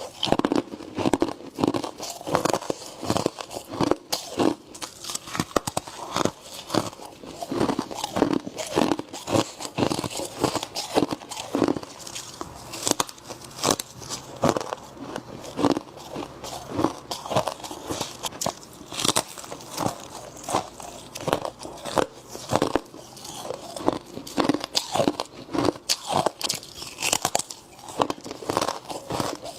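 Frost being bitten and chewed close to the microphone: a continuous run of irregular icy crunches, several a second.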